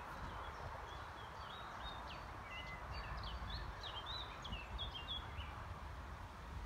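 Small birds chirping in a run of short, quick high notes for a few seconds, over a steady outdoor hiss and low rumble.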